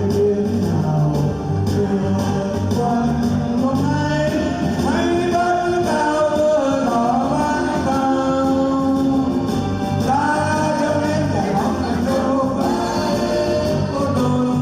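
A song: a singer's voice carrying a melody over a loud instrumental accompaniment, the voice coming in about four seconds in.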